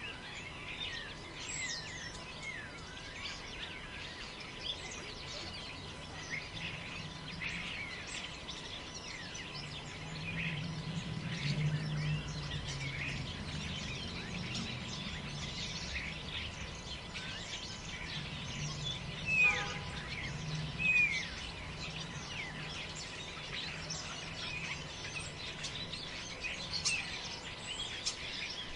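Many forest birds chirping and calling throughout over a low steady rumble that swells for a few seconds about ten seconds in. Two louder, falling calls stand out about two-thirds of the way through.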